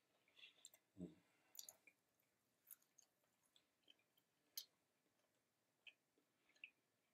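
Faint, scattered mouth clicks and chewing from eating french fries, with one soft low thump about a second in.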